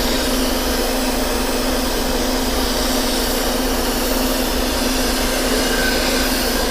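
Metal lathe turning a steel shaft while a carbide insert takes a light roughing cut: a steady, even running noise with a constant low hum.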